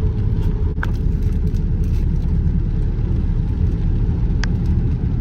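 Car driving, with a steady low rumble of engine and road noise heard from inside the cabin. Two brief faint clicks come about a second in and near the end.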